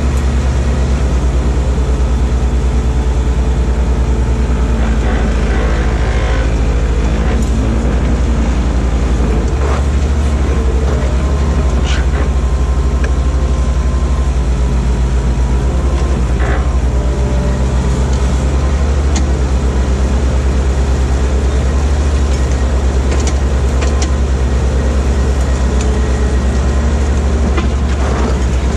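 Skid steer loader's engine running steadily at a constant speed, with a few sharp metallic clanks.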